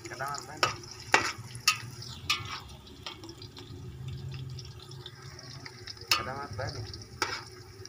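Sliced onions sizzling as they fry in oil in a pot, with a spoon repeatedly scraping and clicking against the pot as they are stirred. This is the browning of the onions in oil that starts a pulao.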